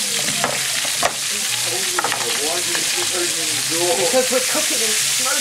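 Chicken, runner beans and red pepper sizzling steadily in hot olive oil in a paella pan, with a utensil clicking and scraping against the pan a few times in the first couple of seconds as the food is stirred.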